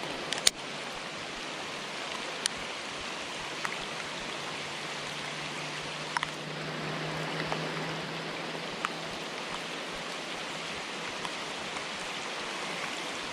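Steady rushing of creek water, with a few sharp scattered ticks, the sharpest about half a second in.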